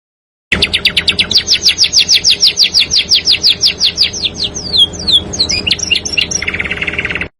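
Songbird song: a rapid run of down-slurred whistled notes, about seven a second, giving way to irregular notes and then a short, dense trill that cuts off suddenly near the end.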